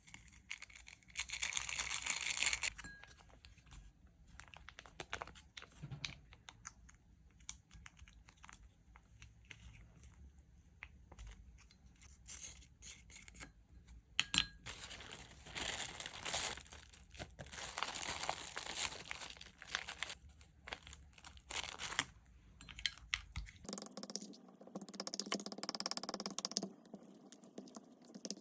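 Crinkling and tearing of packaging in scattered bursts, busiest about a second in and again in the middle stretch.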